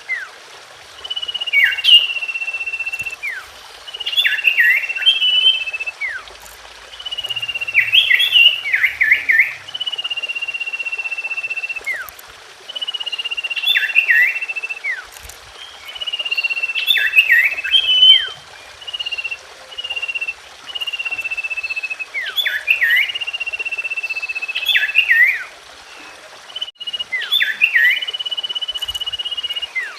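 Common iora (cipoh) singing: a long, high, steady whistle of about a second and a half that falls slightly, then a quick run of sharp down-slurred notes, the phrase repeated over and over about every four seconds.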